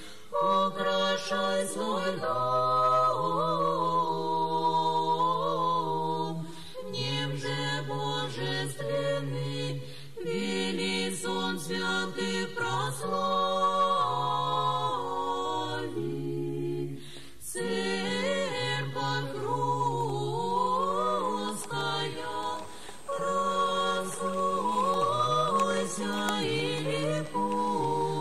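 A church choir singing Russian Orthodox liturgical chant a cappella for a short memorial service, several voices in harmony on long held notes, in phrases with short breaks between them.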